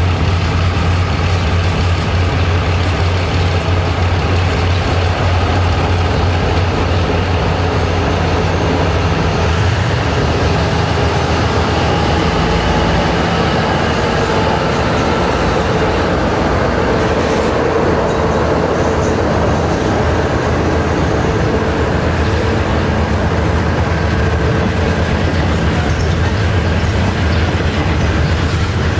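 Alsthom diesel-electric locomotive 4214 hauling a passenger train out of the station, its diesel engine running steadily as it comes up and passes. After that, the coaches roll past with wheel and rail noise.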